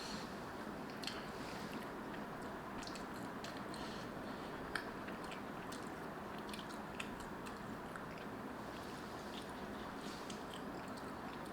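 A person chewing and biting noodles close to the microphone: scattered wet mouth clicks and smacks, one sharper click about five seconds in, over a steady background hiss.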